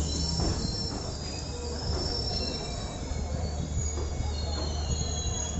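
Passenger train's steel wheels squealing on the rails: several high-pitched whines that drift up and down in pitch, over the steady low rumble of the running train.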